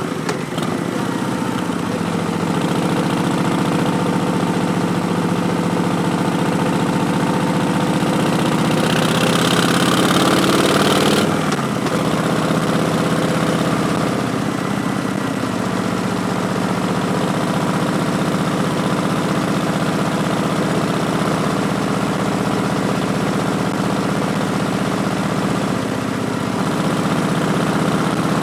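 Harley-Davidson Street Bob's Milwaukee-Eight 107 V-twin running through Vance & Hines Twin Slash slip-on mufflers while riding. It pulls harder with revs rising from about a third of the way in, then drops off suddenly as in a gear change or roll-off, and goes back to steady cruising.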